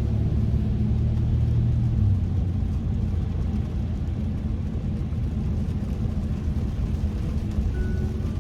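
Kia K5 (third generation) driving: a steady low road and engine rumble with an even hiss of tyre noise above it, the deepest drone easing off slightly about two seconds in.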